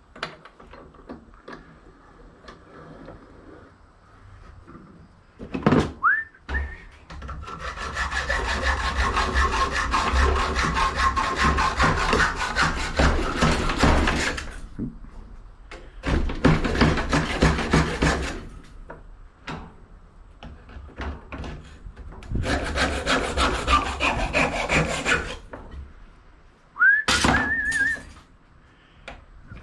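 Brass scrap being scratched with a hand tool to expose bare metal and tell yellow brass from red brass: three long bursts of rapid rasping strokes, with a few small knocks of metal pieces. Twice a short rising whistled note, about six seconds in and near the end.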